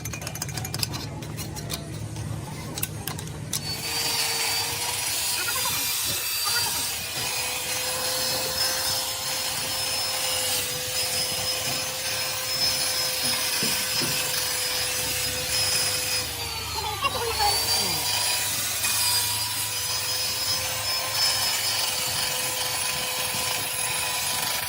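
Rapid rasping scrapes for the first few seconds, then an electric power tool runs with a steady whine and a scraping, abrasive noise. About 17 seconds in, its pitch dips and recovers as the motor is loaded.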